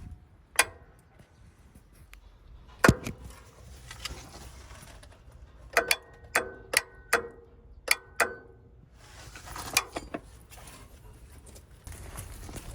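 Metal objects clinking and knocking: a single loud knock about three seconds in, then a quick run of about seven sharp clinks that ring briefly, followed by rustling.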